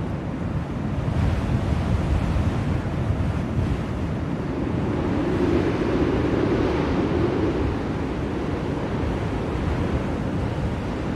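Blizzard wind blowing in a steady rush, with a stronger gust swelling up about halfway through and easing off again.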